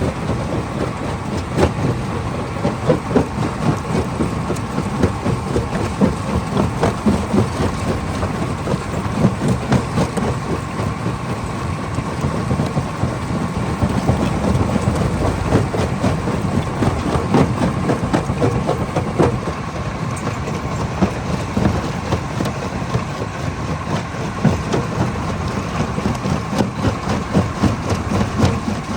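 Stone crusher machine running and breaking rock: a steady mechanical drone under a continuous dense clatter of stone knocking and rattling, with a steady hum throughout.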